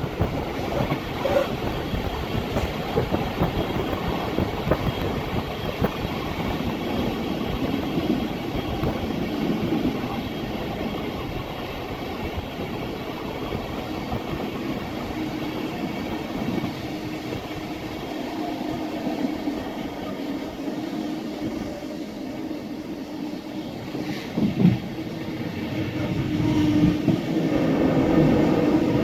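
Passenger train running along the track, heard from aboard: a steady rumble of wheels on rails with some clickety-clack and one sharp clank near the end. In the last few seconds a steady pitched tone swells in over the running noise.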